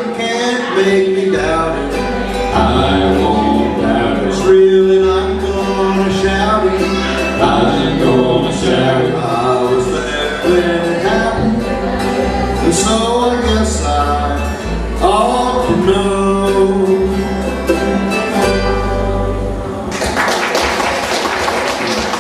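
Acoustic bluegrass gospel band, with strummed and plucked strings, a walking bass and singing, playing the close of a song. The music stops near the end and gives way to a steady noisy wash.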